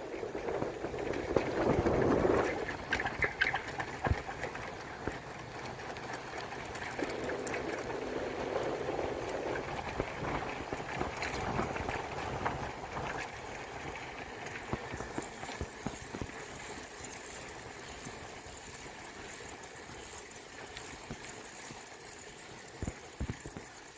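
Noise of a bicycle ride: wind and road rumble on the microphone with scattered rattles and clicks, louder twice in the first ten seconds and slowly dying down after.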